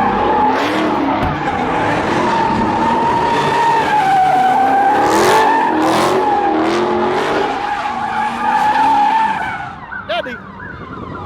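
Car tyres squealing in a long continuous skid, as in a burnout or donuts, with the engine running hard underneath; it holds for about nine seconds and fades near the end.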